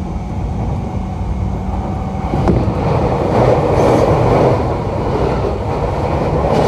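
JR E233-7000 series electric commuter train running, heard from inside the motor car MoHa E233-7401: a steady rumble of wheels on rail with low steady tones, a single click about two and a half seconds in, and a louder rush of running noise a little after.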